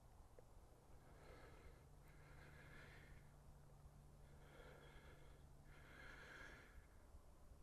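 Faint heavy breathing of a man hiking uphill, in and out about every second and a half.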